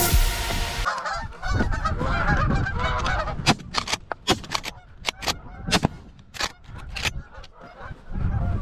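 A flock of geese honking, with repeated bending calls from about a second in. Over the middle of the stretch comes a run of sharp cracks, which are the loudest sounds.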